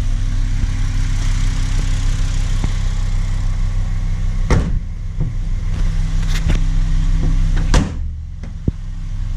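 Volkswagen Rabbit MKV's 2.5-litre five-cylinder engine idling steadily, with a few knocks as the hood is worked and a loud slam a little before the end as the hood is shut, after which the engine sounds duller and more muffled.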